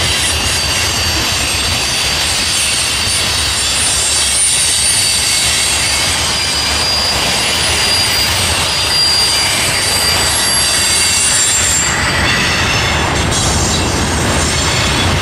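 Freight train of covered hopper cars rolling across a steel girder railroad bridge: a steady rumble of the cars with a high, steady wheel squeal over it.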